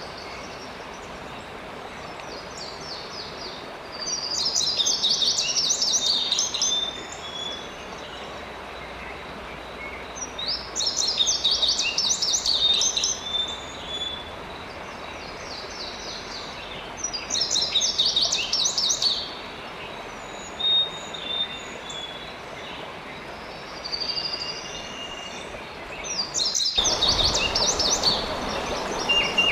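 A songbird singing bursts of rapid, high chirping phrases, each two to three seconds long and coming every six or seven seconds, over the steady rush of running water. A low rumble joins the water near the end.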